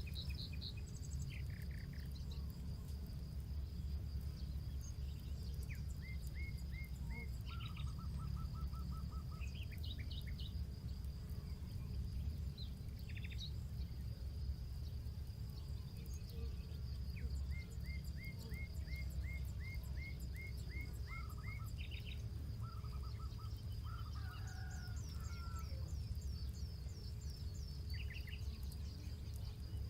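Campfire crackling over a low rumble, with small birds singing short runs of evenly repeated notes and trills throughout, and a steady high whine underneath.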